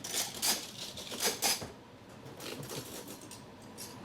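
Kitchen utensils and cutlery clattering and clinking as they are handled, with a cluster of sharp clinks in the first second and a half, then quieter handling.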